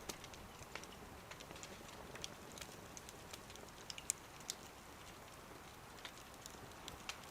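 Wood fire crackling in a small wood stove: faint, irregular sharp pops and ticks over a soft hiss, the sharpest pop about four seconds in.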